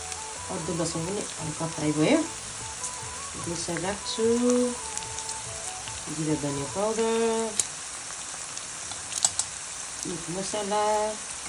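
Food frying, a steady sizzle. Four short phrases of singing are heard over it.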